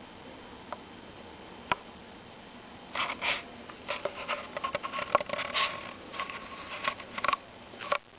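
Two single clicks, then from about three seconds in several seconds of irregular scraping and clicking.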